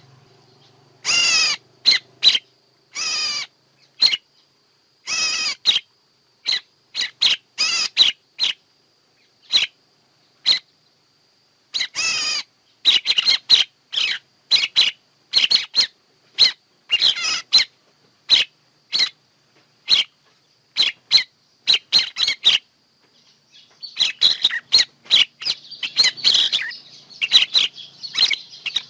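Recorded bird calls of the kind played as a lure for bird trapping: short, sharp calls, some longer and fuller, coming in quick runs with irregular gaps, and crowding together in the last few seconds. A faint steady high tone runs underneath.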